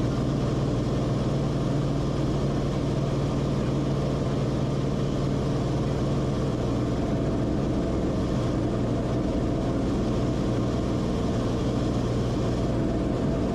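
Cessna Corvalis TTX's turbocharged six-cylinder engine and propeller running with a steady drone.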